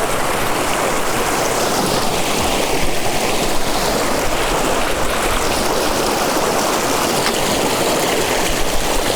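Fast mountain stream rushing over rocks, a loud, steady wash of water heard close to the bank.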